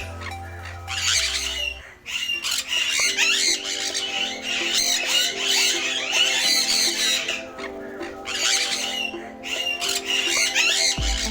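Many parrots squawking and chattering at once, a dense, continuous flock noise, over background music of held notes whose deep bass drops out about two seconds in and comes back near the end.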